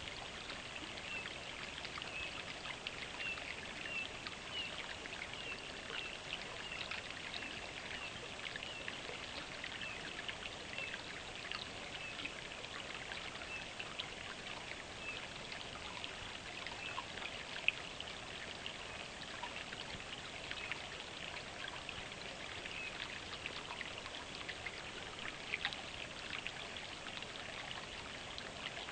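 Clear, shallow mountain brook burbling steadily, with many small, high, bright plinks of running water.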